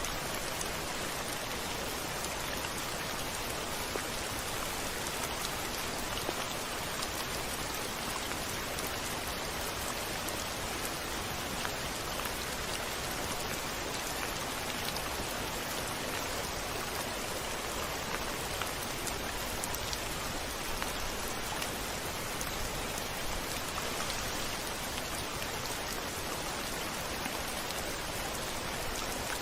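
Steady rain on a window: an even, dense hiss with faint scattered drop ticks.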